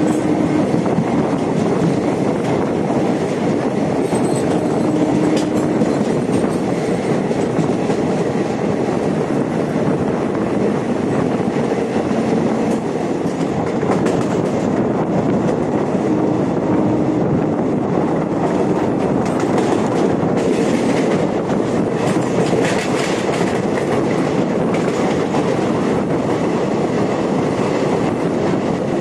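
Express passenger train running along the track: a steady, loud rumble of the coach and wheels on rail, with scattered clatter, more of it in the second half.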